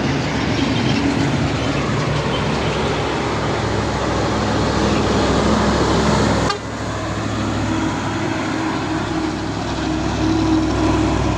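Heavy diesel truck engines running with a steady low rumble; the sound changes abruptly about six and a half seconds in.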